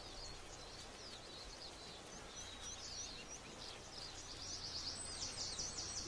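Birds chirping and twittering in a series of short, high chirps that come thicker toward the end, over a faint steady hiss.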